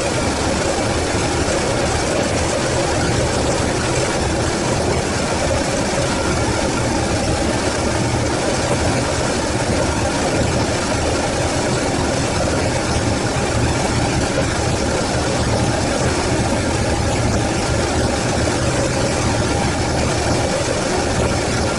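Freshly rebuilt Toyota 4A-GE four-cylinder engine, fed by carburetors, running steadily at idle.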